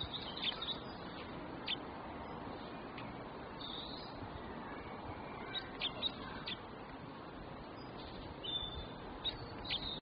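Birds chirping: scattered short, high chirps in small clusters over a steady background hiss.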